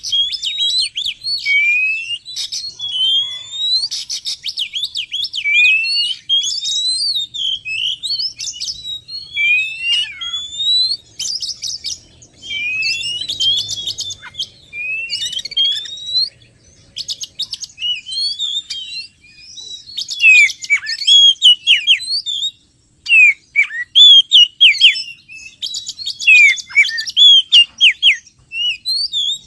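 Oriental magpie-robin singing: a loud, varied run of rising and falling whistles, broken by quick chattering phrases, used as a lure call to draw wild magpie-robins in.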